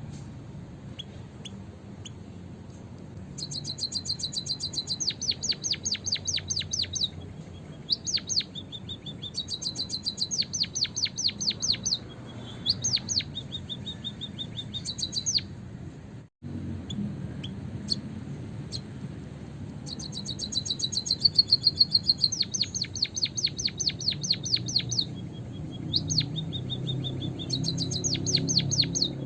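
White-headed munia (emprit kaji) calling: repeated bursts of rapid, high chirps, each run lasting a second or more, with short single chirps between. A brief dead gap cuts in a little past halfway.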